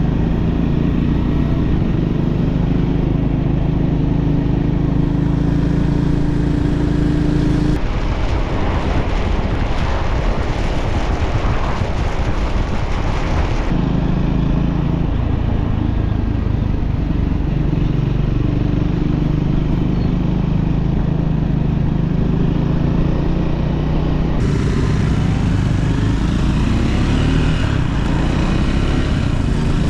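Motorcycle engine running at a steady pitch while riding, with wind rush. From about eight seconds in, for some six seconds, the engine is lost under wind noise before it returns.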